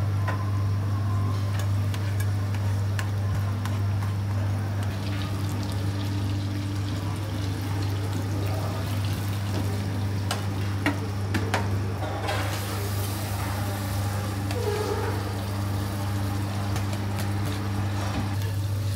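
An egg and pieces of meat frying in a small aluminium pan over a gas burner, against a steady low kitchen hum. Metal pans and utensils clink a few times about ten to twelve seconds in.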